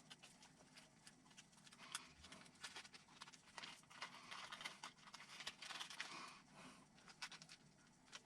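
Faint, irregular clicks, taps and rustles of small plastic and metal kit parts and screws being handled during assembly.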